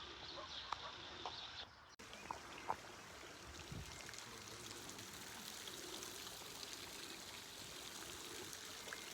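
Water running steadily, with a few short bird chirps over the first two seconds before the sound changes abruptly to the even flow.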